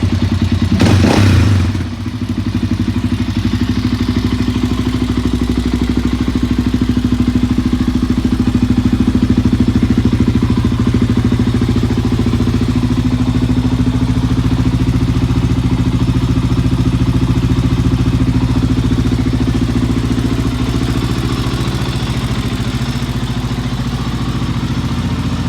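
Honda TRX400EX's single-cylinder four-stroke engine, breathing through a full FMF aftermarket exhaust, just after starting: a brief loud surge about a second in, then a steady idle.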